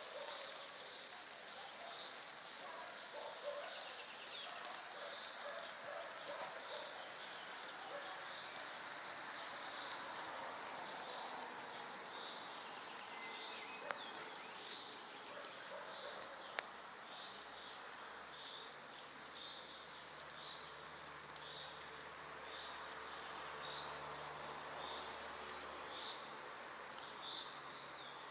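Quiet forest ambience: a bird repeats a short high chirp about once a second over a steady hiss of moving air and leaves. A faint low hum comes in during the second half.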